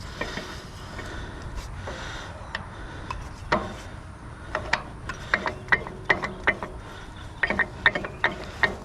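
Irregular mechanical clicking and ratcheting from a Badland winch as its line is pulled out to reach the anchor. The clicks are sparse at first and come in quick clusters from about halfway through.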